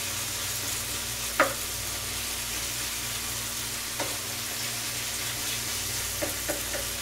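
Chicken liver masala sizzling on a flat tawa, being dry-fried (bhuna) and stirred with a wooden spatula. The spatula knocks and scrapes on the tawa, loudest about a second and a half in, then again near four seconds and twice near the end.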